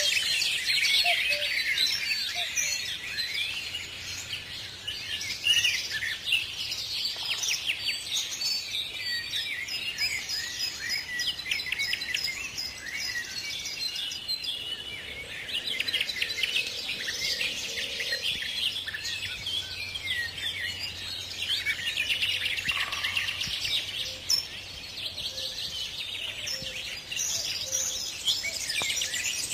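Many birds singing at once: a dense chorus of overlapping high chirps and trills.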